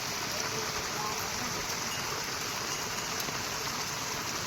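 Heavy monsoon rain falling steadily, a dense even hiss of rain on surfaces.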